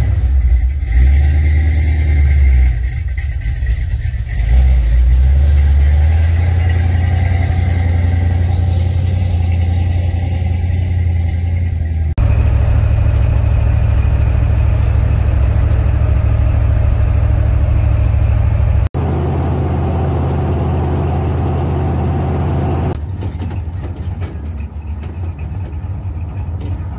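Truck engine and road noise while driving, a steady low drone, in several clips joined by sudden cuts.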